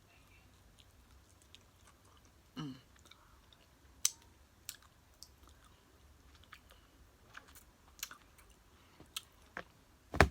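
Close-miked chewing of nachos: scattered sharp crunches and clicks from the mouth as the food is bitten and chewed, with a short 'mm' hum about three seconds in.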